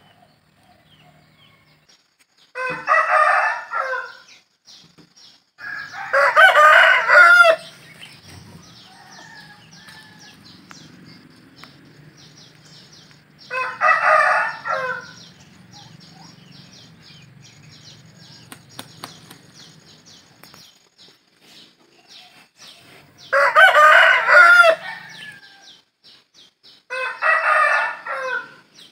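Rooster crowing five times, each crow lasting about one to two seconds, with faint short chirps between the crows.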